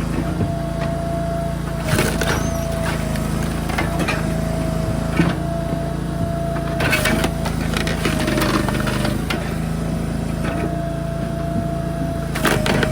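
Engine-driven firewood machinery running steadily, with a constant high whine that sags briefly now and then as it takes load, and several sharp knocks of wood.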